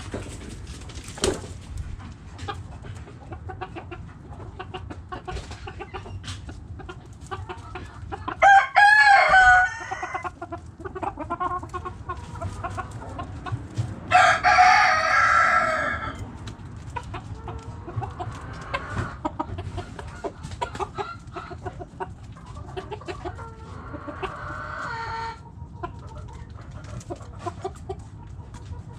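Backyard hens clucking steadily, with a rooster crowing loudly twice, about a third of the way in and again around halfway.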